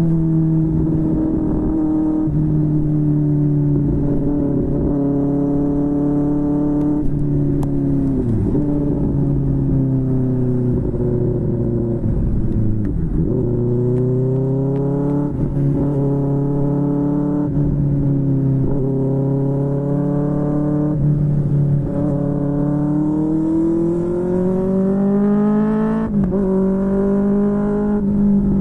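QJMotor SRK600's inline-four running through a Yoshimura R11 exhaust while riding, its pitch rising and falling with throttle and gear changes. Twice the revs dip sharply, and twice they climb steadily for several seconds before dropping again.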